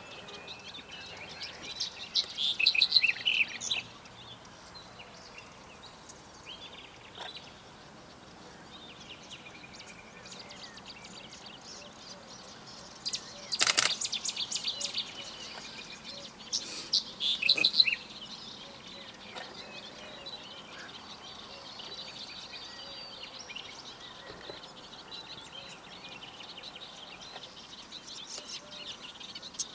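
Songbirds singing in short bursts of rapid high notes, loudest about two to four seconds in and again around seventeen seconds in, with fainter calls between. A single sharp click comes about fourteen seconds in.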